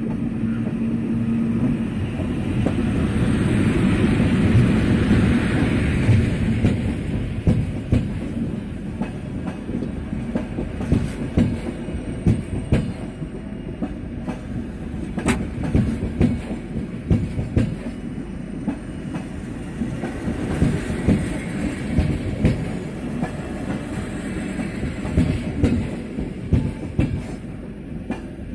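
Passenger train hauled by an electric locomotive passing close by along the platform. The rumble swells as the locomotive goes by, then the coaches follow with a steady, rhythmic clickety-clack of wheels over the rail joints.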